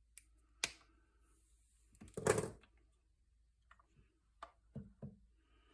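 Workshop handling sounds of tools and small engine parts: a sharp click, then a louder scraping rustle about two seconds in, followed by a few light clicks and taps.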